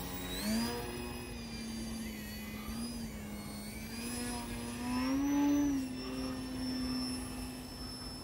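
Electric motor and propeller of an E-flite Eratix foam RC plane whining in flight. The pitch rises about half a second in, then swells loudest around five seconds in before settling to a steady tone.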